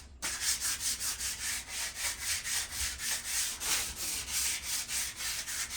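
Hand sanding of surface rust on a metal patio table, sandpaper rasping back and forth in quick strokes of about four a second.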